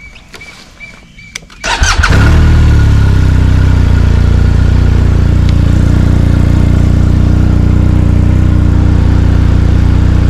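BMW R 1250 RT's boxer-twin engine starting: a couple of seconds in, the starter cranks briefly and the engine catches, then settles into a steady, loud idle.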